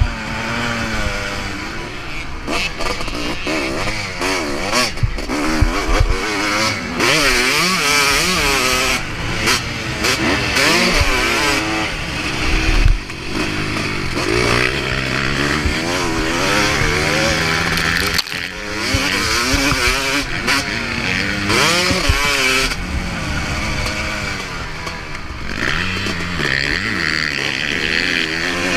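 Motocross bike engine being ridden hard, its revs rising and falling again and again as the throttle is opened and shut through the corners and jumps, with wind noise over it.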